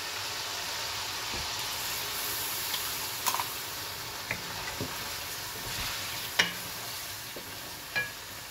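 Chicken pieces and ginger-garlic paste sizzling in hot oil in an aluminium karahi while being stirred with a wooden spoon, a steady high hiss. A few sharp knocks stand out, the loudest about two thirds of the way through.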